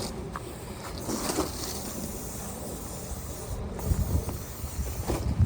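Hissing of an aerosol oil spray being sprayed onto a sled's underside to make it slide faster, with low rumbles of wind or handling on the microphone.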